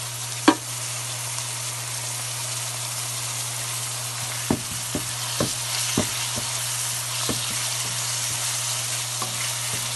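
Onions and bell peppers frying in oil with a steady sizzle while a spatula stirs them. There is a sharp clack about half a second in, then several knocks of the spatula against the pan, over a steady low hum.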